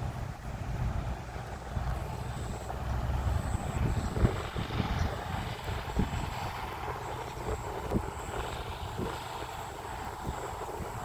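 Sugar cane train running: a steady diesel locomotive rumble, with sharp clanks from the wheels and wagons at irregular intervals.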